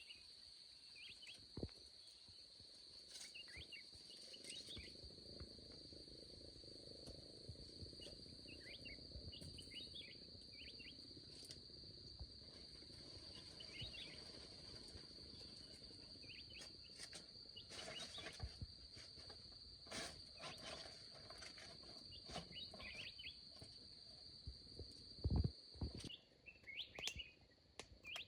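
Forest ambience: a steady high insect drone with scattered bird chirps, over a low rumble and occasional sharp clicks and knocks, the loudest knock near the end.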